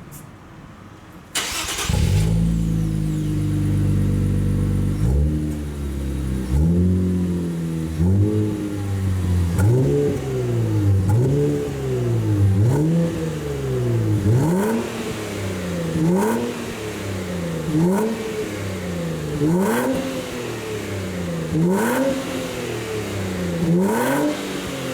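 Nissan RV37 Skyline GT's twin-turbo engine starting about a second in, through an aftermarket titanium exhaust with a straight centre pipe and flat rear silencer, settling to a steady fast idle. It is then revved repeatedly in short throttle blips, each rising and falling back, one every one and a half to two seconds.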